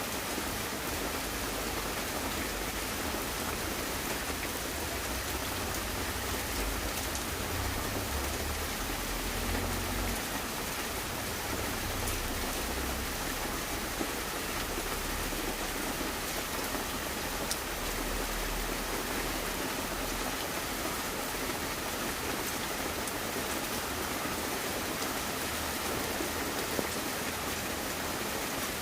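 Steady rain, an even hiss with a few faint clicks of drops.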